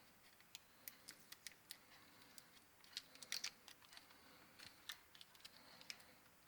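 Faint, irregular light clicks and taps of small plastic parts and tools being handled while a zip-tie loop is hot-glued onto a key fob, over a faint steady hum.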